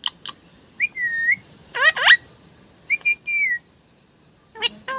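Pet parrot whistling and calling: a held whistled note about a second in, two loud downward-sweeping squawks just after, and another whistle past three seconds. Quick clicks at the start and again near the end.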